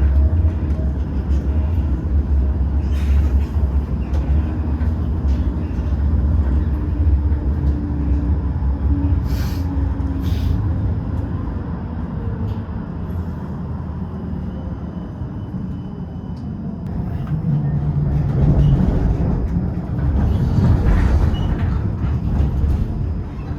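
Tram running along its rails: a steady low rumble that eases for a few seconds past the middle, then builds again with a short motor hum about three-quarters of the way through.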